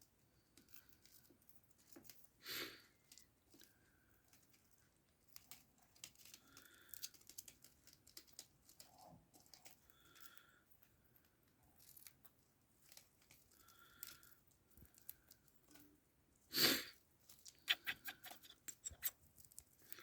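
Fancy hens moving about: scattered quick taps and scratchy rustles, a few short soft clucks, and twice a louder rustling burst.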